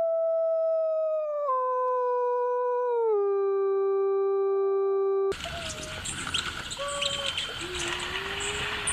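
One long, drawn-out animal howl holding a single pitch, dropping lower in two steps, then cutting off suddenly about five seconds in. After that a noisy outdoor background follows, with faint whistled calls and chirps.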